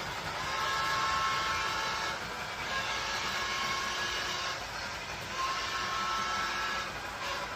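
A train running, a steady noise with a whine that fades and returns every two seconds or so.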